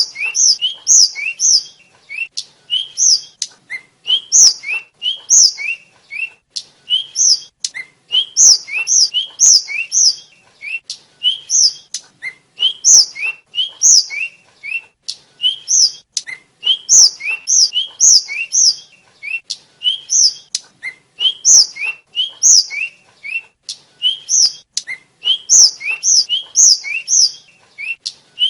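Tledekan (sulingan), a small flycatcher, singing in quick runs of short, high chirps, each a brief upslurred note followed by a sharper higher one, in clusters with short pauses between.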